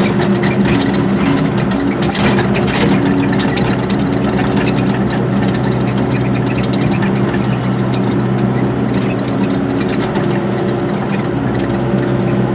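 Excavator's diesel engine running steadily under load, with metallic clanking and rattling that is heaviest in the first few seconds.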